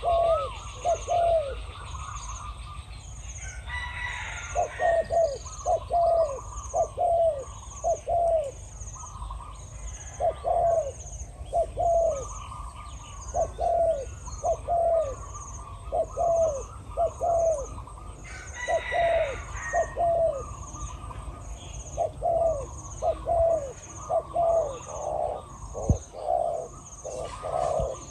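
Spotted doves cooing repeatedly in phrases of low, deep coos, a decoy bird and a wild one with a very big voice calling back and forth. A faint high ticking runs underneath about once a second.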